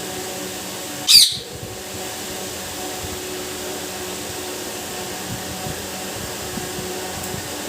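A pet parrot gives one short, loud, shrill call about a second in, wavering in pitch, over a steady background hiss.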